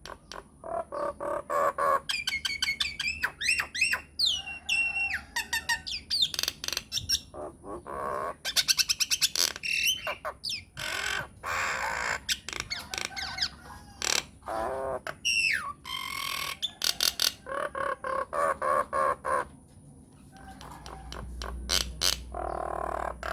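Myna bird calling in a fast, varied string: harsh squawks and rapid clicking chatter mixed with loud whistles that slide up and down, with a short lull near the end.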